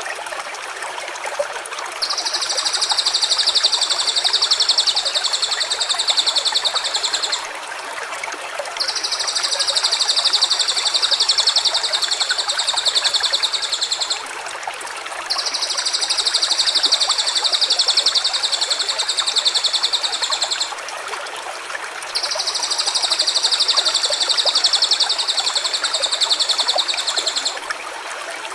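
Steady rush of a stream with a high, buzzing trill four times, each about five seconds long and evenly spaced.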